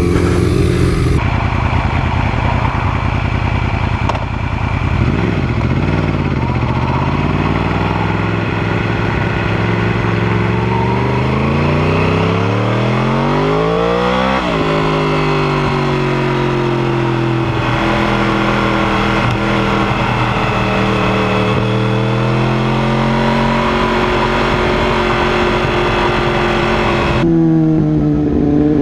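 Motorcycle engine under way and accelerating: its pitch climbs steadily for several seconds, drops sharply at a gear change about halfway through, then runs fairly steadily. The sound changes abruptly just after the start and again near the end.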